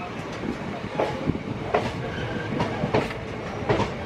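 Passenger coach wheels clattering over rail joints at uneven intervals, over the steady rumble of a train running at speed.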